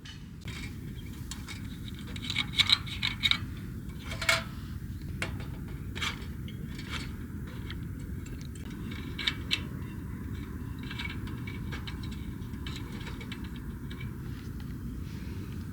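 Scattered light clinks and scrapes of small hard objects being handled, bunched a few seconds in and again near the middle, over a steady low background rumble.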